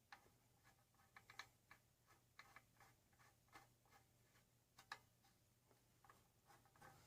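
Near silence with faint, irregular small clicks and taps, about a dozen scattered through, over a low steady hum: small parts and tools being handled during engine reassembly.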